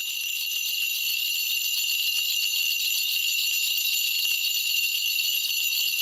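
A Korean shaman's ritual bell cluster (mugu bangul) shaken continuously, a steady bright jingling that swells slightly in the first second.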